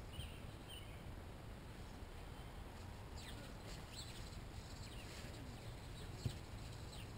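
Faint outdoor ambience: small birds chirping now and then with short, high, downward-sweeping calls, over a steady low rumble. A single soft knock sounds about six seconds in.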